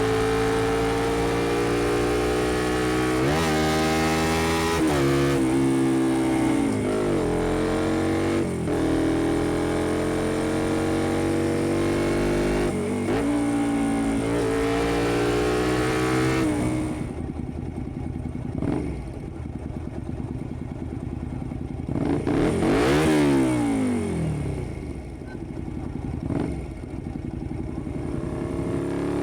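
Honda XL125V Varadero's twin-cylinder 125cc engine through an aftermarket Black Widow exhaust, accelerating through the gears: the engine note climbs and then drops at each upshift, about five times. A little past halfway it backs off and goes quieter and duller. A few seconds later comes a loud swell that falls in pitch, then low running with short blips near the end.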